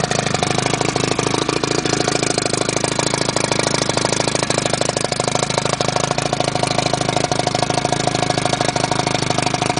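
Johnson Super Seahorse 40 hp two-stroke outboard idling steadily at an even pace, warm, running out of the water on flushing muffs.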